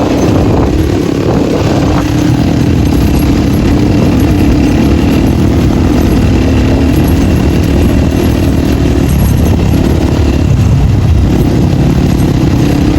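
Crossfire 250 dirt bike with its dB killer removed, running under way on the open exhaust, the engine note rising and falling slightly with the throttle.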